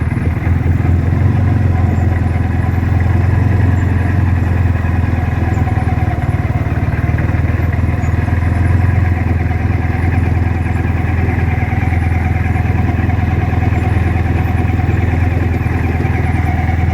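Corvette V8 engine idling steadily, a low rumble with no change in revs.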